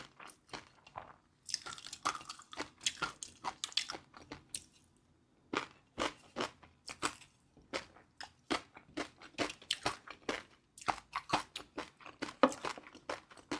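Close-up chewing of crunchy food: rapid crisp crunches in runs, with a couple of short pauses between mouthfuls.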